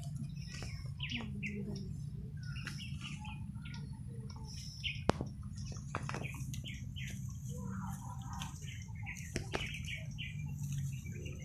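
Small birds chirping in short, scattered calls over a steady low hum, with a sharp click about five seconds in and a fainter one near the end.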